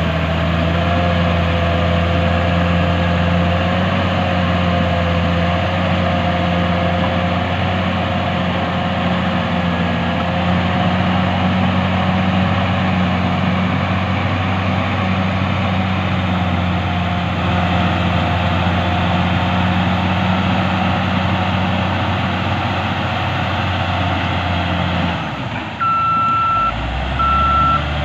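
Diesel engine of a heavy earthmoving machine running steadily. Near the end the engine note changes abruptly and a reversing alarm starts beeping in regular short pulses as the machine backs up.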